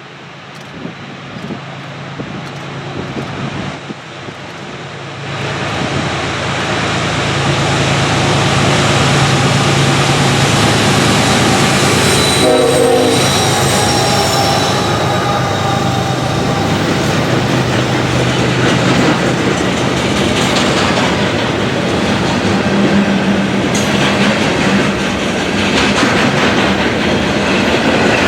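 Diesel-hauled train approaching and passing close, its locomotive engines building over the first several seconds, then a loud, steady rush of rolling wheels and cars. A short horn-like tone sounds about twelve seconds in.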